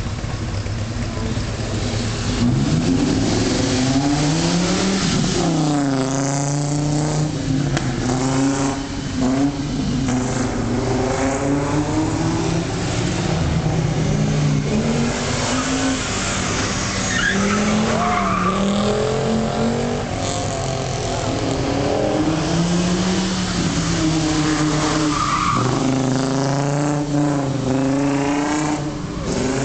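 Audi Coupe engine being revved over and over, its pitch climbing and dropping repeatedly with short holds between the revs.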